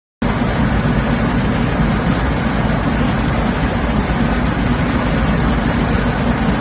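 A steady, loud rumbling noise like a running vehicle, cutting in abruptly a moment in after silence and holding even without changes in pitch.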